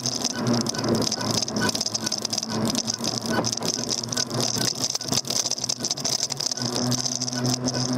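E-bike riding over the road, with a handlebar-mounted camera and fittings rattling and knocking over a steady hum and high whine.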